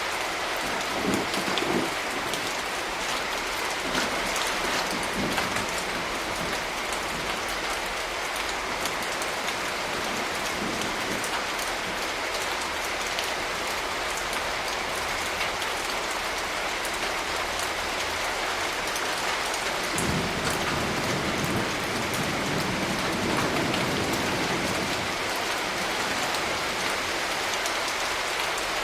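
Steady rain pattering on surfaces. About two-thirds of the way through, a low rumble of thunder swells for a few seconds and fades.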